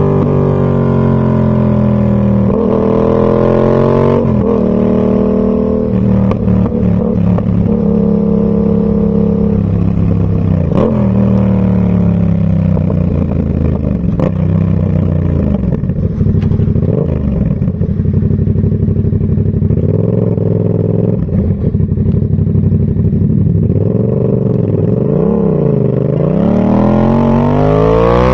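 Yamaha MT-07's parallel-twin engine through a Zard full exhaust system, ridden on the road. Its revs rise and drop sharply with gear changes and throttle, ease off through the middle, then climb steeply again near the end.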